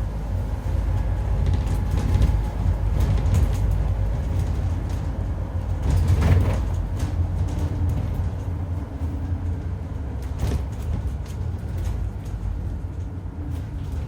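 Scania N230UD double-decker bus running along with a heavy low rumble and a faint steady howl over it, which the uploader thinks sounds like a dodgy bearing or worn-out tyres. A brief clatter comes about six seconds in and another a few seconds later.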